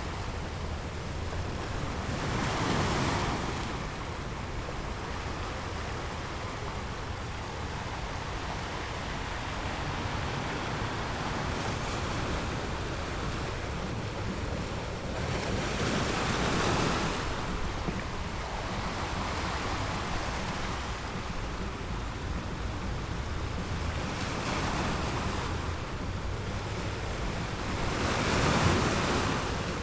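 Sea waves breaking on a rocky beach: a steady wash of surf with three louder crashes, about 3 seconds in, around the middle, and near the end.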